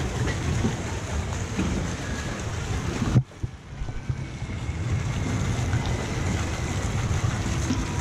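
Wind buffeting the microphone and water rushing past during a ride on a Zierer jet-ski water ride, a steady low rumble. About three seconds in the noise drops out abruptly, then builds back.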